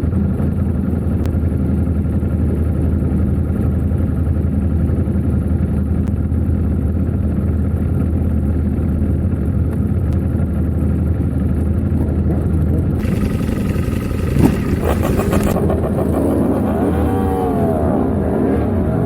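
Superbike engine idling with a steady low drone. About two-thirds of the way through, engines start revving up and down in repeated rising and falling blips.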